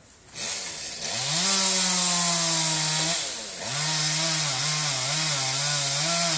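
Chainsaw engine revving up to full speed about a second in, easing off briefly near the middle, then revving again with its pitch dipping and wavering under load as it cuts through a tree branch.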